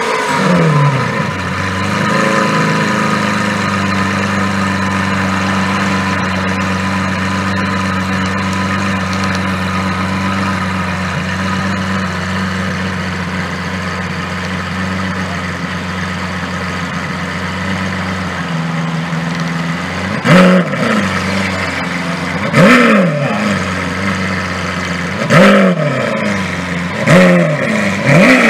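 Lamborghini Aventador SV's V12 running at a high idle that drops and settles in the first couple of seconds, then idles steadily. From about two-thirds of the way in it is given five short throttle blips, a couple of seconds apart, as the car moves off.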